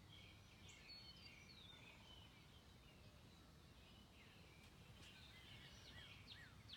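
Quiet outdoor background with faint birds chirping. Near the end there is a run of quick, downward-sweeping chirps, a few a second.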